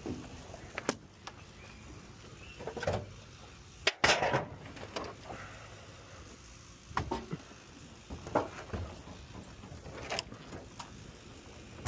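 Irregular knocks and clunks of a refrigerator and its removed doors being handled and moved. The loudest knock comes about four seconds in.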